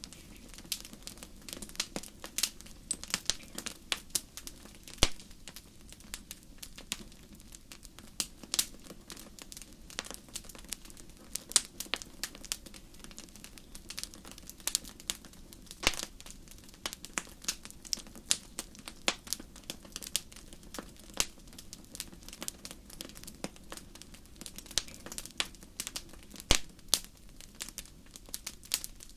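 Wood fire in a fireplace crackling, with frequent irregular sharp pops and snaps over a steady low background.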